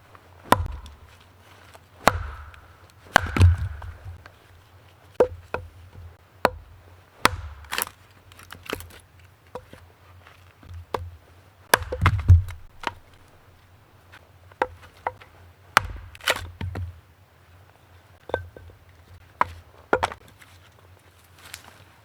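Wood being chopped with an axe: irregular sharp chopping strokes, roughly one a second, with a few heavier blows among them.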